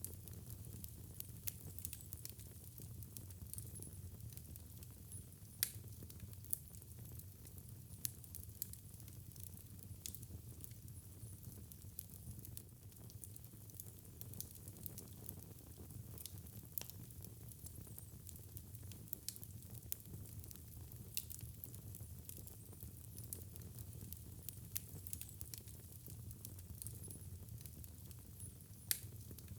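Wood fire crackling in a fireplace: irregular sharp pops and snaps over a steady low rumble, with the loudest pops about six seconds in and near the end.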